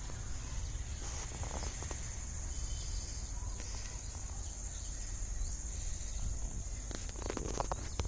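Steady high-pitched insect chorus, like crickets, over a low rumble, with a few faint knocks about seven seconds in.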